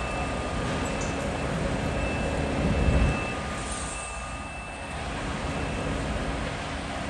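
Freight train of covered grain hopper cars rolling past: a steady rumble of wheels on rail that swells to its loudest about three seconds in, with a faint high whine coming and going.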